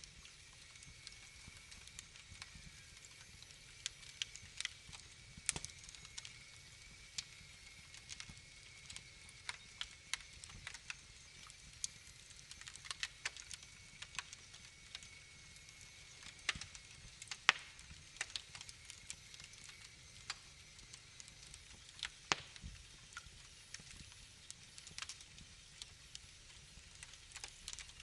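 Wood fire crackling in a fireplace: irregular sharp pops and snaps over a low, steady hiss. A faint high whine sits underneath and fades out about two-thirds of the way through.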